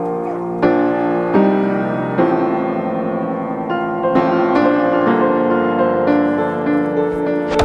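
Piano music, slow sustained chords changing every second or so, with a brief sharp click at the very end.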